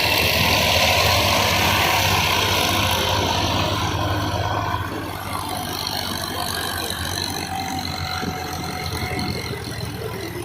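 Massey Ferguson tractor's diesel engine running steadily, a little louder for the first few seconds, then easing off slightly about five seconds in.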